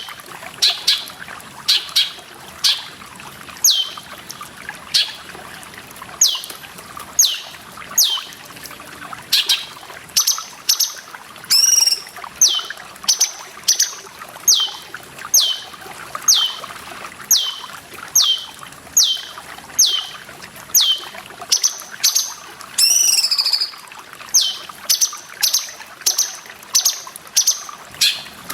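Cucak cungkok song: a long run of short, sharp whistled notes, each sliding downward, about one or two a second, broken twice by a longer warbling phrase. Under it runs a steady trickle of water.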